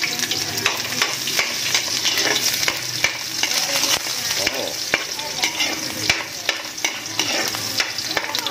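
Chopped garlic and onion sizzling in hot oil in a wok, stirred with a spatula that scrapes and clicks against the pan now and then.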